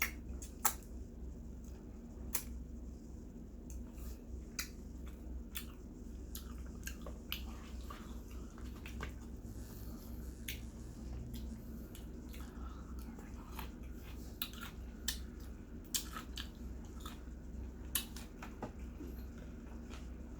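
Scattered sharp clicks and short soft crackling sounds of a roasted chicken being handled and torn apart, over a steady low hum.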